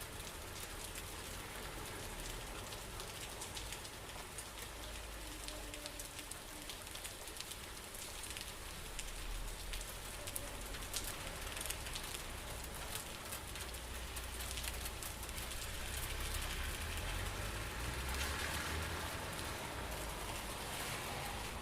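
Steady rain with many separate drops ticking on a surface, over a low rumble, likely wind, that swells in the second half.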